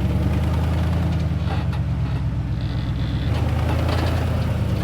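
A truck engine running steadily with a deep, even drone.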